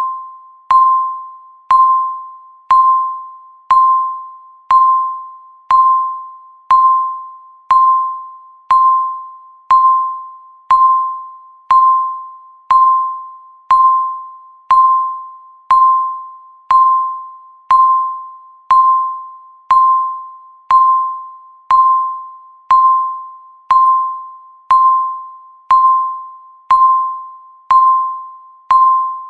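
Countdown timer's tick sound: one sharp, ringing electronic tick each second, each dying away before the next, counting off the seconds.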